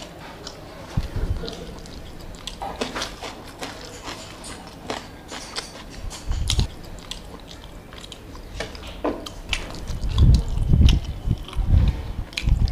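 Close-miked chewing and wet mouth smacks of a person eating rice and chicken by hand, with scattered sharp clicks. The chewing gets louder and denser in the last few seconds.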